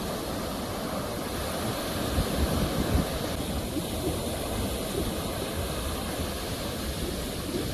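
Ocean waves washing on the shore: a steady rushing surf with a deep rumble, swelling a little louder a couple of seconds in.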